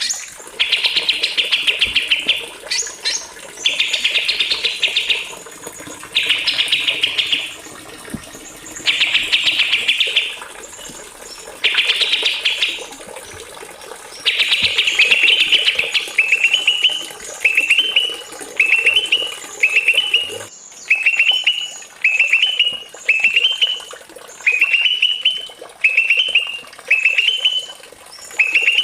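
Small songbird singing: dense, rapid chattering bursts about a second long with short pauses between them, then from about halfway a regular series of short upward-sweeping notes, a little more than one a second.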